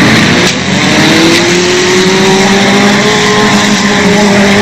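Demolition derby car engines running together. One engine revs up about a second in and holds at a steady high pitch.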